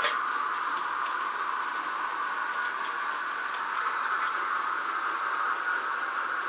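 H0-scale model trains running on the layout: a steady whirring of small electric motors and wheels on track. There is a sharp click right at the start.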